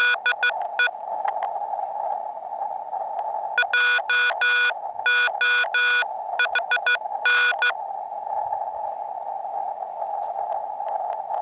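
Morse code on a portable HF ham radio: a buzzy tone keyed in short and long elements over the receiver's steady, narrow band of hiss. There is a quick group of elements at the start and a longer run from about three and a half to eight seconds in.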